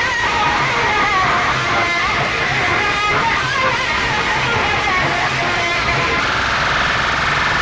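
Loud music played over a DJ sound system: a wavering melodic line over a pulsing bass beat.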